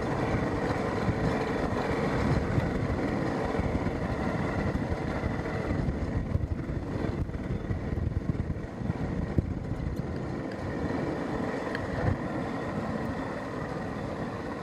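A vehicle engine running steadily, mixed with a rushing noise of wind or sea.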